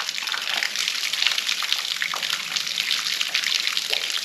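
Small waterfall pouring and splashing in a steady rush.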